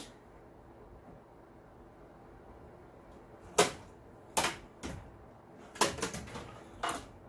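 Sharp plastic and metal clicks and clacks from handling a cordless drill and its bits while fitting a bit: about six separate knocks over the second half, the loudest coming first.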